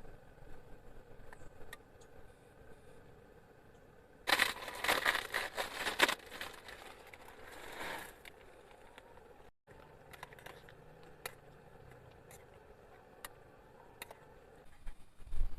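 Crinkling, rustling handling noise for a few seconds, then scattered single soft clicks.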